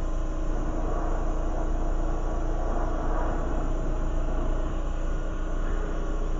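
Steady rushing roar of a lampworking glass torch flame, with a faint steady hum underneath.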